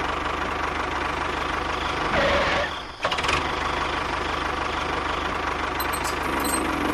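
An engine running steadily at idle, with a brief drop-out just before three seconds in before it carries on.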